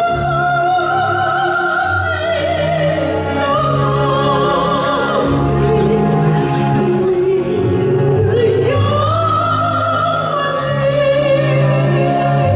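Operatic singing in a high, soprano-range voice with a wide vibrato, over steady instrumental accompaniment; the melody dips about halfway through and climbs back up to a long held high note.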